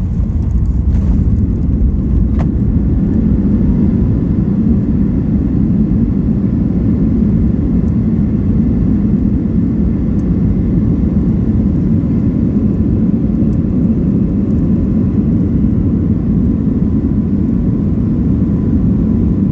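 Airliner's jet engines running with a steady low rumble; a faint whine rises in pitch a few seconds in and then holds.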